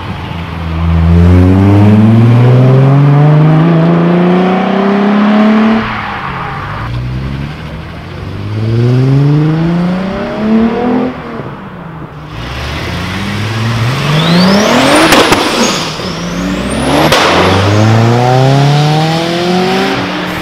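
Volkswagen VR6 narrow-angle V6 engines in several cars, one after another, accelerating hard. Each engine's pitch climbs through a gear and drops at the shift. A high whistle rises twice near the middle.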